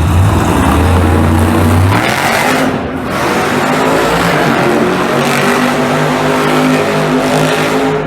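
Monster truck engines running loud and revving, the pitch rising and falling from about two seconds in.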